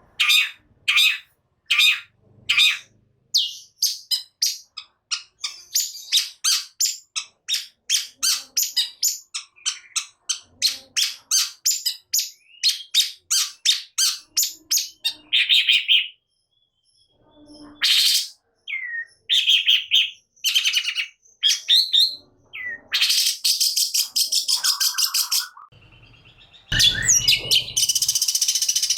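Long-tailed shrike singing: a long run of rapid, sharp, high repeated notes that quickens to about four a second, then varied whistled calls and two harsh, scratchy rasping stretches near the end.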